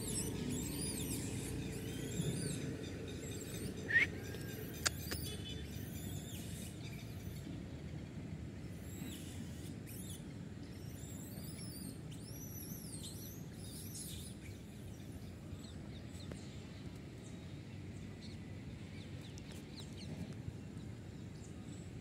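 Birds chirping in the background, short repeated high calls, over a low steady rumble of outdoor noise. A brief sharp squeak with a click about four seconds in is the loudest moment.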